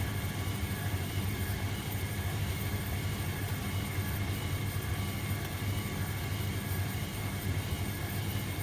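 Hoover Keymatic De Luxe 3243H washing machine running with a steady low hum.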